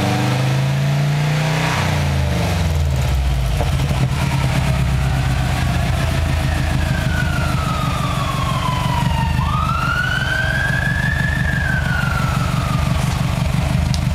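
Exhaust note of a 2.0-litre engine through a homemade axle-back exhaust with a straight pipe in place of the tip. In the first few seconds the revs fall back, and then it idles steadily with a low, pulsing burble. About halfway through, a siren wails over it, falling and then rising in pitch.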